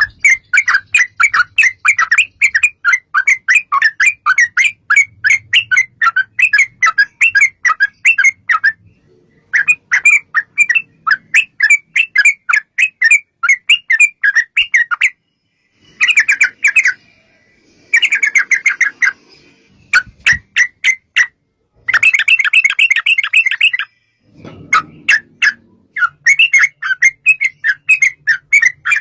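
Yellow-vented bulbul (trucukan) singing a long, rapid chattering 'ropel' song of many quick notes a second, in runs of several seconds broken by short abrupt pauses.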